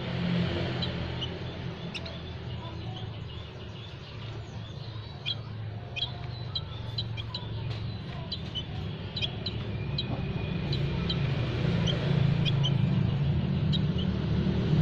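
Small songbirds chirping: many short, high chirps at an uneven pace, several birds at once. A steady low hum runs underneath and grows louder toward the end.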